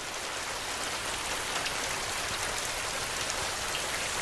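Steady rain: an even hiss of falling water, thick with tiny ticks of single drops.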